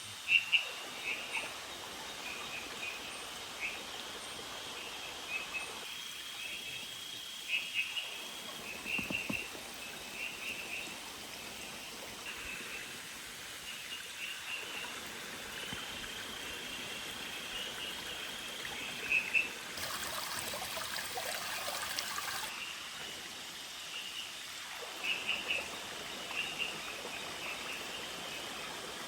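Steady hiss of falling or running water, with small creatures giving short high chirps in clusters every second or two and two longer held high notes.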